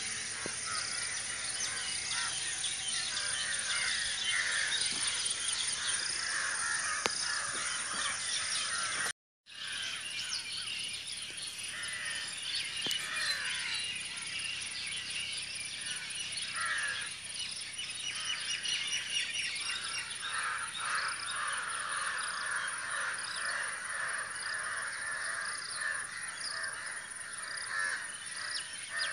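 Crows cawing among a busy chorus of other birds calling and chirping at once. The sound cuts out for a moment about nine seconds in.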